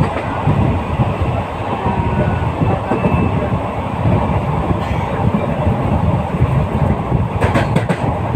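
Passenger train running along the track, a steady rumble of wheels on rails, with a few sharp clicks near the end.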